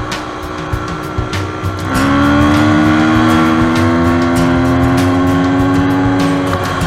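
Dirt bike engine held at high revs from about two seconds in, its pitch climbing slowly before it drops off near the end, over background music with a steady beat.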